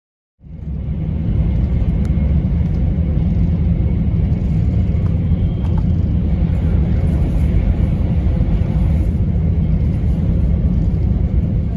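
Passenger-cabin noise of a Shinkansen, an E4 series Max, running at speed on a viaduct: a loud, steady low rumble with a fainter hiss above it. It starts abruptly about half a second in.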